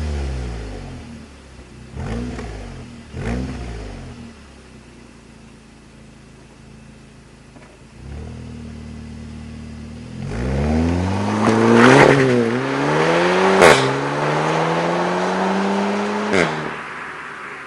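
Seat Leon Cupra 280's turbocharged 2.0-litre four-cylinder, warmed up, revved through an Eisenmann cat-back exhaust. The revs fall away, there are two short throttle blips, and it idles for a few seconds. Then comes a long climbing rev with a sharp crack partway through, cut off near the end and dropping back toward idle.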